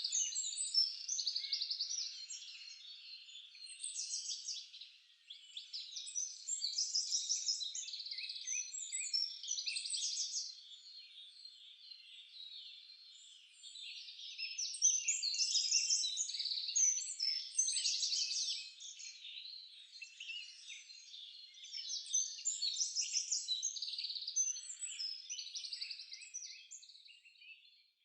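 Several songbirds singing: quick, overlapping high chirps and trills that come in bursts of a few seconds, with quieter gaps between.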